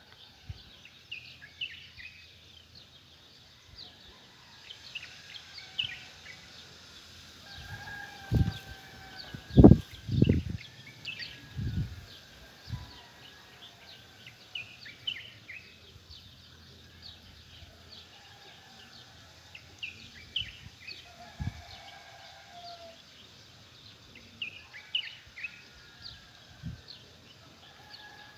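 Small birds chirping throughout, with a rooster crowing several times. A cluster of loud low thumps comes near the middle.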